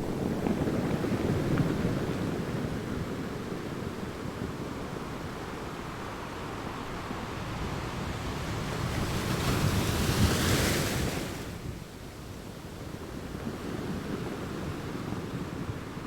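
Ocean waves breaking and washing in: a surge at the start, then a louder wave builds about ten seconds in with a bright hissing wash before it drops away.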